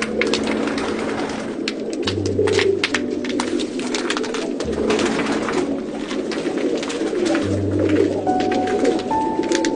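Domestic Baku pigeons cooing steadily, a dense overlapping murmur of calls, with many sharp clicks scattered through it.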